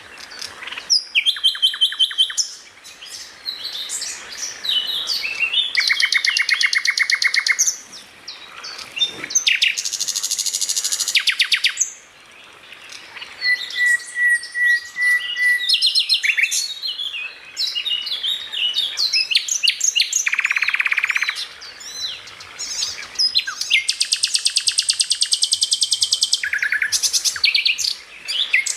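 A songbird singing a varied song of rapid buzzing trills, sharp chirps and gliding whistles, in phrases of a second or two separated by short pauses, with a run of steady pulsed whistles about halfway through.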